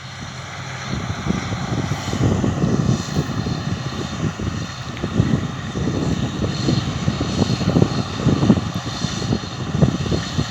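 Steady drone of farm machinery at work in the field, with wind buffeting the microphone in irregular low gusts.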